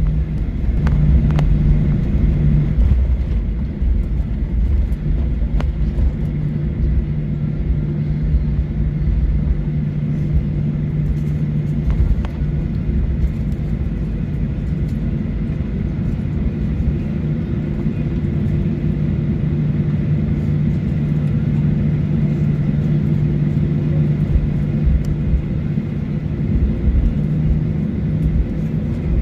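Boeing 737-900ER cabin noise on the ground: its CFM56 engines hum steadily at low power over a low rolling rumble, with a few light knocks, typical of the aircraft taxiing.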